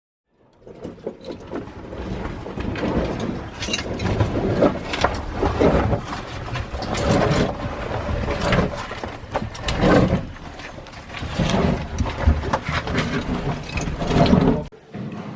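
Irregular scraping and clattering with many sharp clicks, loud and uneven, like rock and gear being worked in a tight cave passage. It cuts off suddenly near the end.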